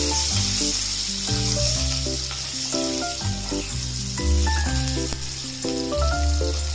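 Chopped onions sizzling steadily as they fry in hot oil in a pan, with spices. Background music with a bass line plays over it.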